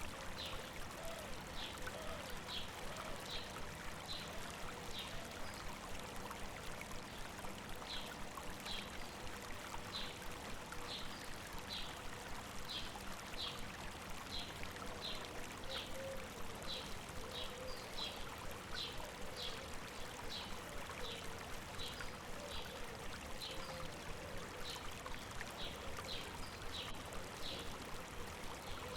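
Stream water running steadily over rocks, with a short high chirp repeating regularly, about one to two times a second.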